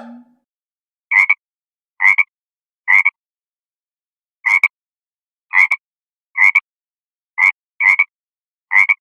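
A short animal call repeated nine times at uneven intervals, each call about a quarter of a second, with silence between.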